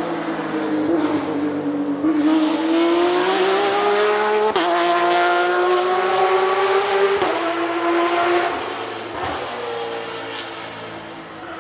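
Nissan 370Z's 3.7-litre V6 accelerating hard: the revs climb, drop sharply at an upshift about four and a half seconds in, climb again and drop at a second upshift about seven seconds in. The engine then eases off and gets quieter near the end.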